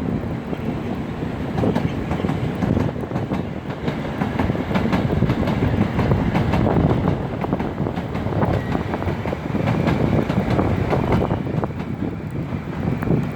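A train passing on the rails, its wheels clicking rapidly over the track, with wind rumbling on the microphone.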